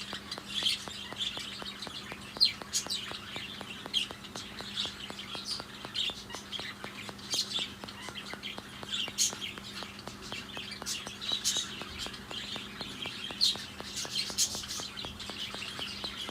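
Budgerigars chirping: many short, high chirps at irregular intervals, over a faint steady low hum.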